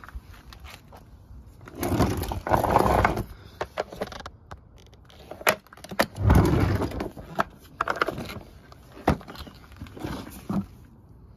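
Irregular scraping and rustling handling noises, with several sharp clicks and knocks; no motor running.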